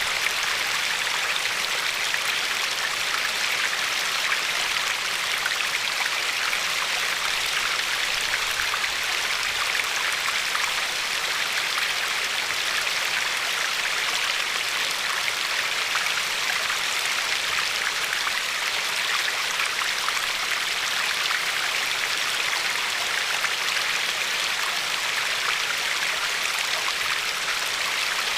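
River water flowing and lapping along a pebbly shore: a steady rush of water with many small splashes.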